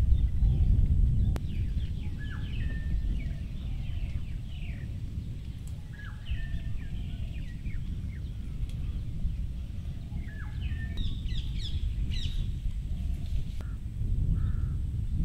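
Outdoor ambience of birds calling in many short chirps, busiest near the end, over a loud low rumble.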